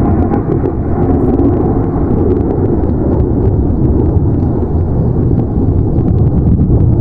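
Steady, loud low rumble with scattered faint clicks and crackles.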